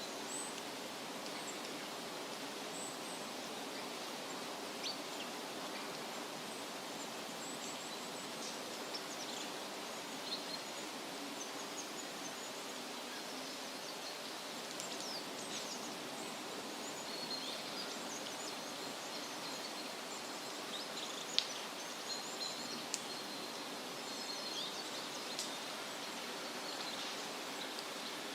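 Steady rustle of wind through leafy trees, with scattered high chirps and short calls of small songbirds throughout.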